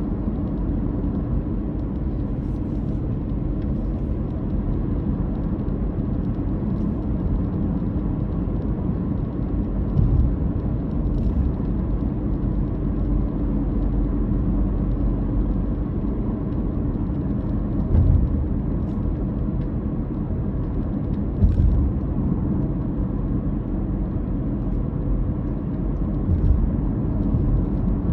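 Car engine droning steadily with road noise while driving, broken by a few brief thumps.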